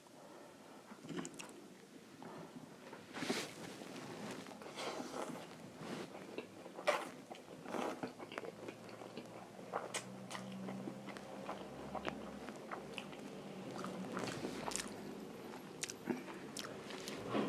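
A person chewing and biting keema noodles close to the microphone, with irregular short mouth clicks and smacks.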